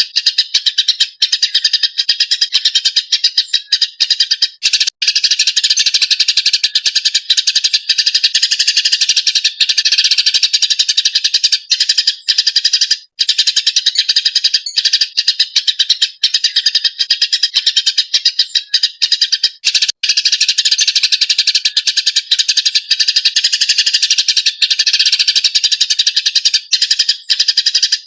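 Eurasian tree sparrow chattering in a rapid, unbroken run of chirps, the agitated calling that is used to tutor songbirds, with a few momentary breaks.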